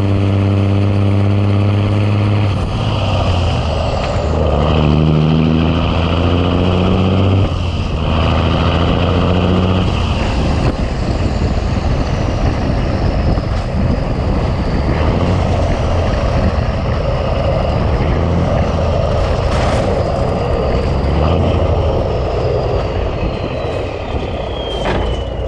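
Big Cam Cummins inline-six diesel in a 1986 Ford LT9000 truck, running steadily at first, then rising in pitch twice as it accelerates through the gears, then settling into a steady drone at road speed. A high whine glides slowly down near the end, with a couple of sharp clicks.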